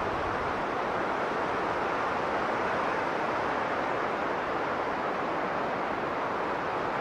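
Blizzard wind blowing strong and steady, an even rushing noise that swells slightly about two to three seconds in.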